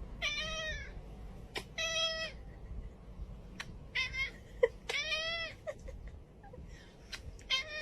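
A cat meowing about four times, each meow about half a second long, with a shorter one near the end.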